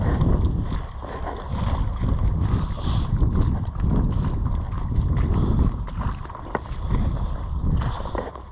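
Floodwater sloshing and splashing, with a deep rumble that swells and fades about once a second and wind buffeting the microphone.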